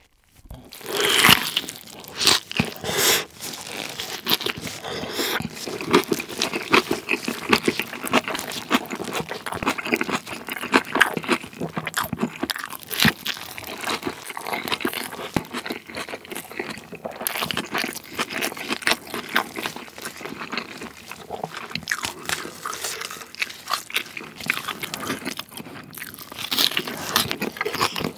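Close-up eating sounds: a bite about a second in through a rice burger wrapped in a leaf of napa cabbage kimchi, then steady crunchy, wet chewing of the kimchi, lettuce and pressed rice bun.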